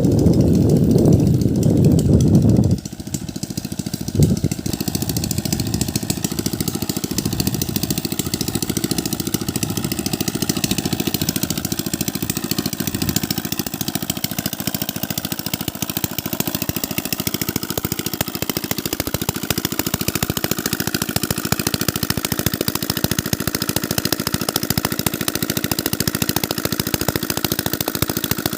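Diesel engine driving an irrigation pump, running steadily with a fast, even firing beat. A louder low rumble over it cuts off suddenly about three seconds in.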